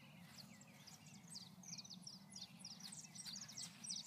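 Faint chirping of small birds, many short quick high notes in a row, over a steady low background hum.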